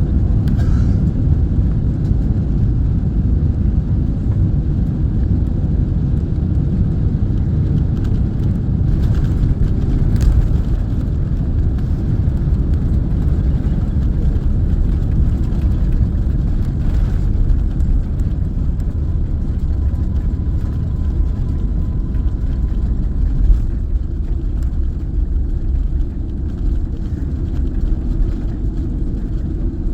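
Steady low rumble of an airliner heard from inside the passenger cabin during landing. It eases slightly about two-thirds of the way through.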